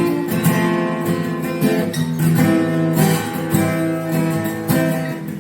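Acoustic guitar strummed in a steady rhythm, playing sustained chords as a song introduction.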